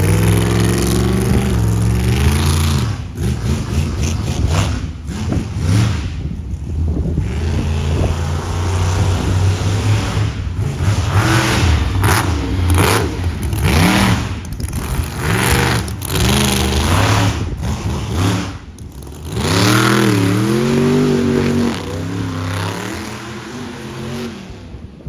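Monster truck engine revving hard through a run, its pitch repeatedly climbing and dropping with short lifts of the throttle in between. It drops away sharply at the very end.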